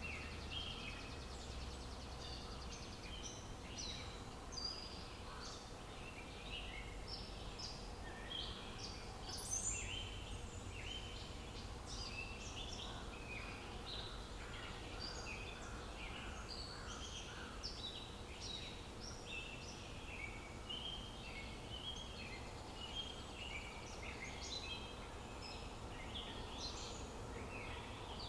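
Many small birds chirping and singing at once, a dense run of short, quick calls throughout, over a steady low outdoor rumble.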